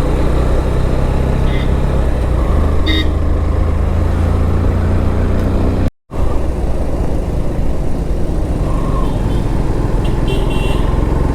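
Motorcycle engine running at riding speed, with wind rush on a helmet or bike-mounted camera and road noise around it, plus a few short horn toots from nearby traffic. The sound cuts out completely for an instant about halfway through.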